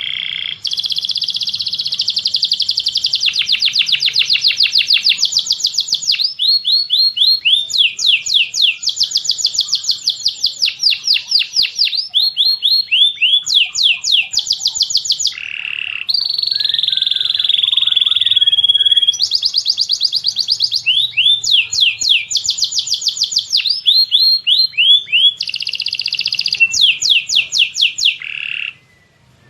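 Songbird masteran recording mixing tengkek buto, cililin and canary song: fast runs of sharp sweeping whistled notes and ringing trills, repeated in bursts. It cuts off briefly near the end.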